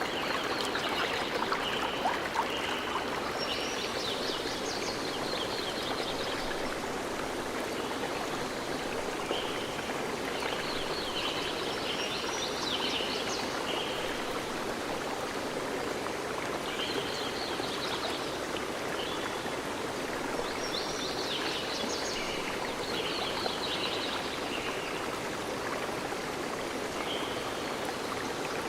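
Flowing stream, a steady rush of water, with small birds chirping in short clusters that come and go every few seconds.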